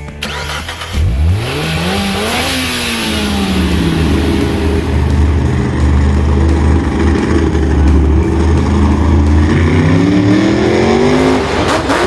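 Engine revving up sharply about a second in, easing back down, running steadily at a low drone, then revving up again near the end.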